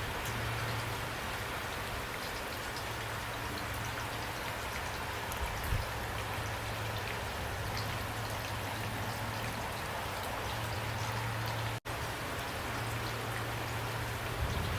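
Steady rain falling, with individual drops ticking through it and a low hum underneath. The sound cuts out for an instant near the end.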